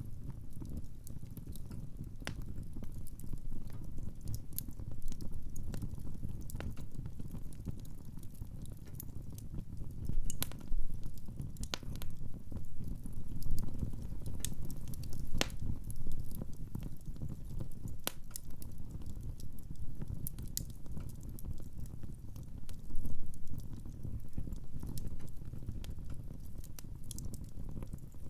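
Wood fire crackling in a fireplace: a steady low rumble of the flames with irregular sharp pops and snaps from the burning firewood.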